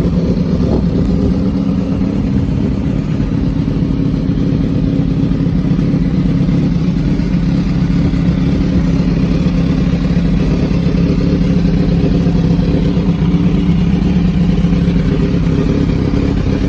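2004 Suzuki GSX-R 1000's inline-four engine running steadily, with no marked revving.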